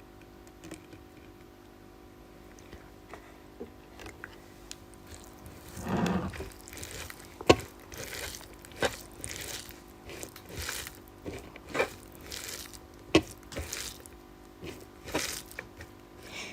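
A person eating a meal of rice and fish curry: chewing and crunching. The first few seconds are quiet with faint ticks. From about six seconds in come louder mouth sounds with a sharp click every second or two.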